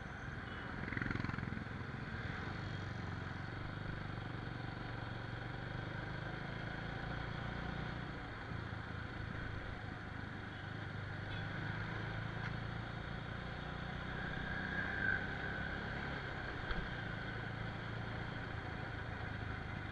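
Motorcycle engine running steadily while riding through city traffic, with road and traffic noise around it.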